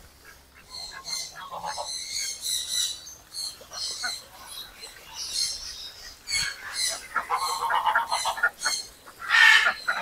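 Birds calling: many short, high chirps repeating, with lower calls joining in from about seven seconds in.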